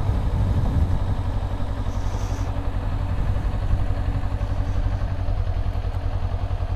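Motorcycle engine running steadily at low revs with a low, even throb, as the bike is ridden slowly through tight turns.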